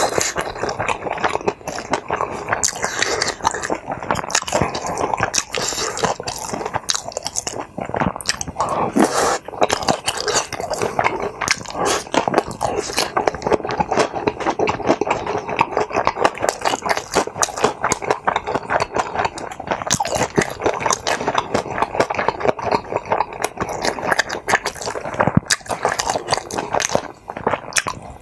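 Close-miked chewing and biting of food, a continuous run of wet, squishy mouth sounds.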